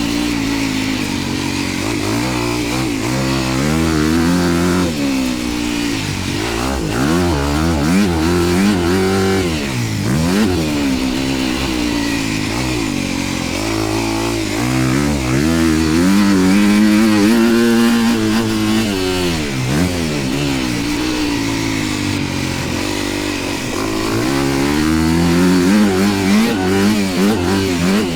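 Dirt bike engine being ridden hard, its pitch climbing and dropping again and again as the rider revs through the gears and rolls off the throttle.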